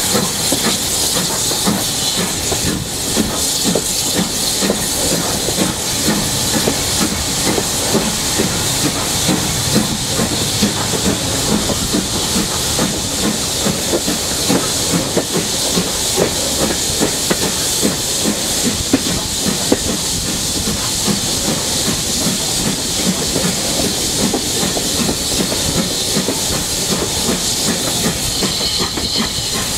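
Steam train running, a steady hiss over the rumble and clatter of wheels on the rails.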